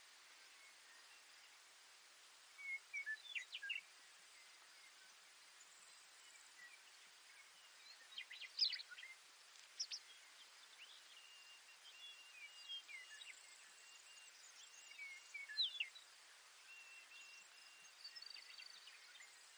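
Baird's sparrow singing: short songs of quick, high notes, about three times, over a faint steady outdoor hiss.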